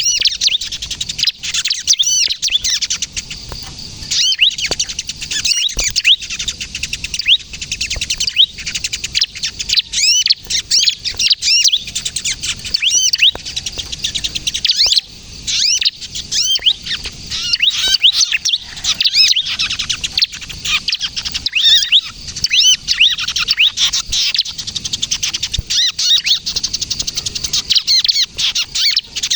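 Ciblek kristal (bar-winged prinia) giving the rapid, agitated 'kejepit' call, a dense stream of quick high chirps that sweep up and down without pause. It is the call used to lure wild ciblek and to get caged ones to sing.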